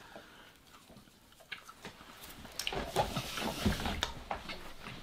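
Chewing of a sugar-coated gummy candy belt: irregular small smacks and sticky clicks of mouths eating, getting busier and louder after about a second and a half.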